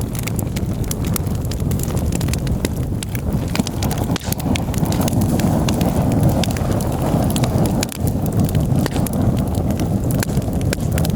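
Campfire crackling, with frequent sharp irregular pops and snaps over a steady low rumble that swells slightly midway.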